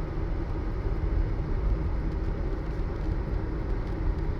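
Steady low rumble of a car driving, heard from inside the cabin: tyre and engine noise with no distinct events.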